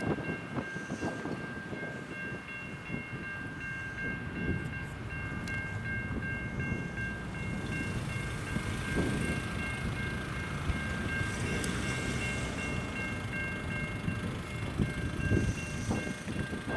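Level crossing electronic bells (older-style Safetran Type 3 e-bells) ringing in a steady repeating pattern while a train rumbles through the crossing.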